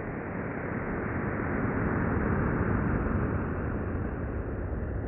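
Sonification of data from the Sagittarius A* black hole: a low, rushing noise with no clear tone, growing louder toward the middle and easing off near the end.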